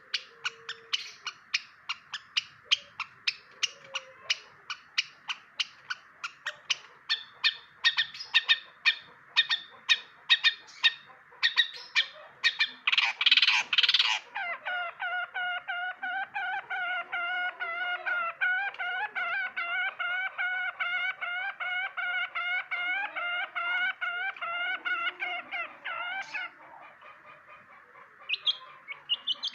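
Long-tailed shrike (cendet) calling: a run of sharp repeated chips about three a second, a short harsh burst, then a long string of rapid pulsed notes in a steady rhythm that stops suddenly.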